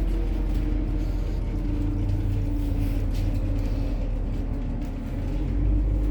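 MAZ-103 city bus running on methane, its engine and drivetrain rumbling steadily as heard from inside the passenger cabin while it drives. The engine note steps a little lower about a second and a half in.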